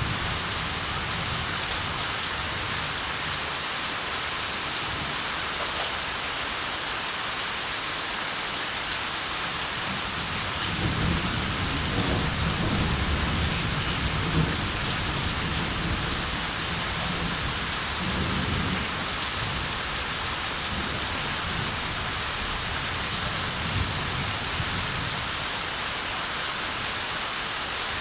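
Steady, even rain falling in the countryside, with distant thunder rumbling low for several seconds a little over a third of the way in, and again briefly about two-thirds through.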